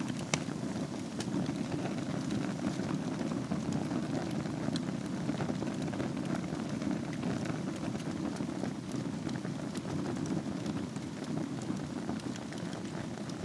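Fire burning in a fireplace: a steady low rush of flames with many small scattered crackles and pops.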